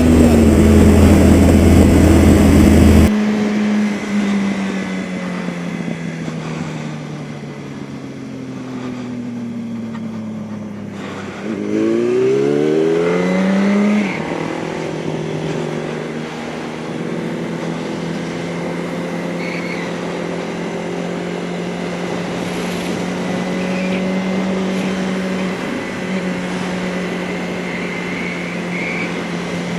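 Motorcycle engine on the move, heard from the bike. A heavy wind rush stops suddenly about three seconds in. The engine note then falls as the bike slows, rises quickly as it accelerates about halfway through, and settles into a steady tone while cruising.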